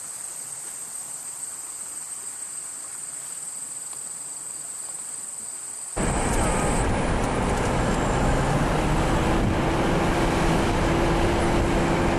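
Steady high-pitched insect chorus. About six seconds in it cuts off abruptly, replaced by a much louder steady rushing noise with a faint low hum.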